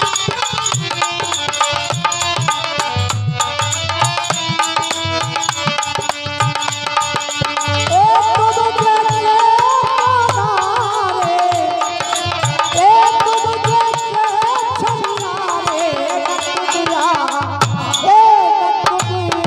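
Instrumental break in Bundelkhandi Rai folk music: fast, steady hand-drumming with dense jingling percussion, joined about eight seconds in by a melody instrument playing a wavering, trilling tune.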